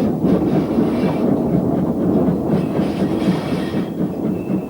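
Great Western Railway City class 4-4-0 steam locomotive running along the track, a steady dense rumble of engine and wheels.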